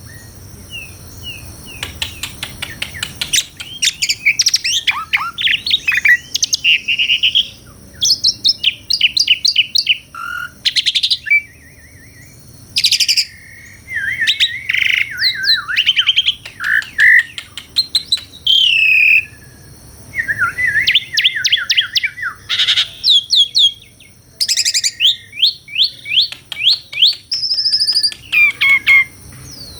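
Asian pied starling (jalak suren) singing a varied song: bursts of rapid repeated notes, trills and gliding whistles, broken by short pauses.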